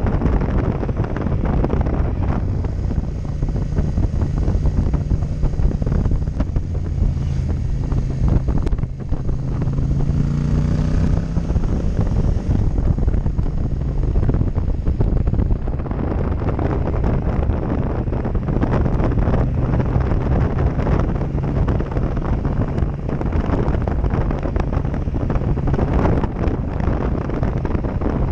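Heavy wind buffeting on a GoPro microphone over a Yamaha MT-07 Tracer's parallel-twin engine running at road speed. The engine note climbs around ten seconds in, then falls back.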